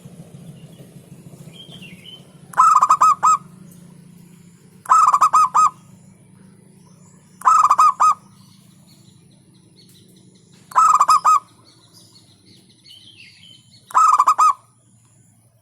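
Zebra dove (perkutut) singing: five short cooing phrases, each a quick run of about four notes, repeated every two and a half to three seconds.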